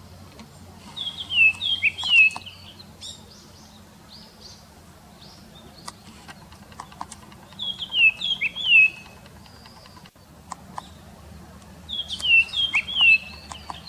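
Japanese grosbeak singing: three short phrases of clear gliding whistles, a few seconds apart, with faint short ticks between them.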